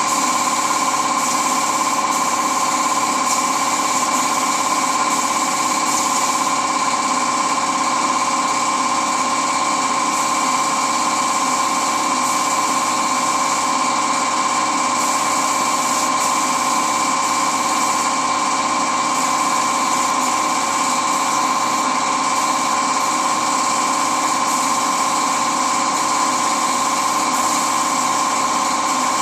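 A small motor or power tool running steadily without a break, with a constant whine.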